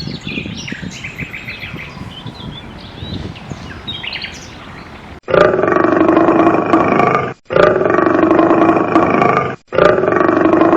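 Small birds chirping and twittering over an outdoor background for about five seconds. Then, after a sudden cut, a loud drawn-out call or roar comes three times, each about two seconds long with short breaks between.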